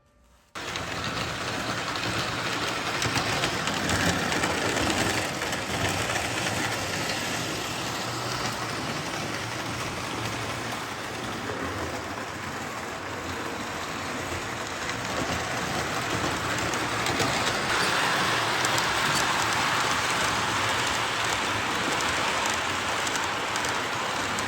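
Lionel O-gauge model train running along the layout track: a steady wheel-and-motor clatter that starts abruptly about half a second in and cuts off suddenly at the end.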